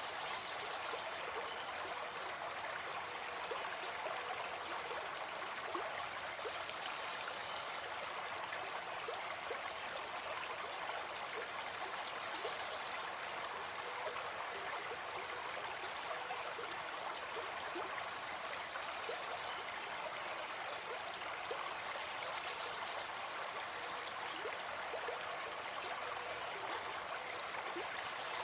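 Gentle forest stream flowing over stones, a steady babble of running water.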